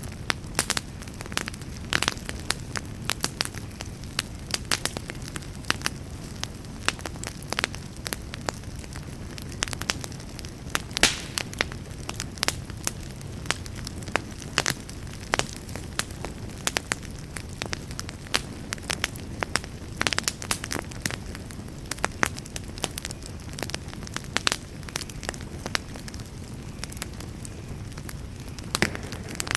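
Wood campfire crackling: irregular sharp pops and snaps, several a second, with some louder cracks, over a steady low rumble.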